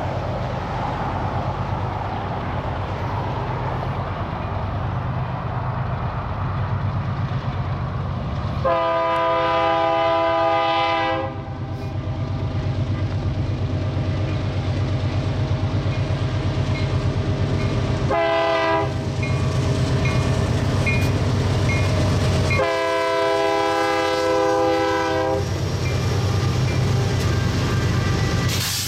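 BNSF diesel freight locomotives leading an empty grain train, engines running with a steady low rumble as they draw near. The multi-note air horn sounds three times: a long blast, a short one, then another long one.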